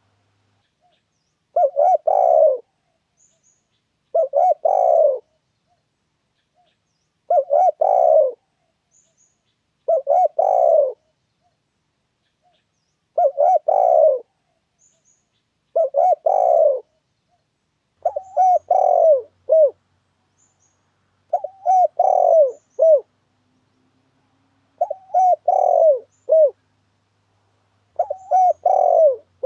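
Spotted dove (tekukur) cooing: a short phrase of a few low coos, repeated about every three seconds, ten times over. It is the dove's lure call, used to draw wild spotted doves to a snare.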